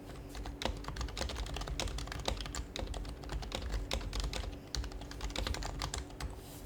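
Fast typing on an HHKB Professional HYBRID Type-S keyboard with silenced Topre switches: a quick, uneven run of soft key clicks that stops shortly before the end.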